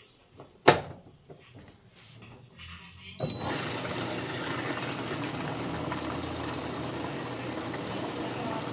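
Electrolux Essential Care 11 kg washing machine: a sharp click just under a second in and a few light knocks, then a little after three seconds water suddenly starts rushing in and runs on steadily as the machine fills its drum, with a short high beep as the fill begins.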